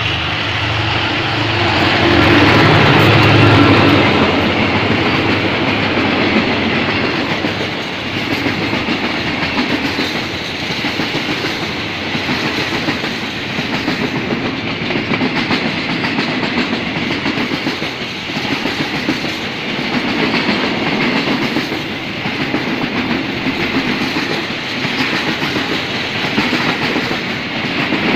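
A State Railway of Thailand GEA-class diesel-electric locomotive passing close by, loudest about three seconds in, followed by a long string of railway cars rolling past with wheels clacking over the rail joints.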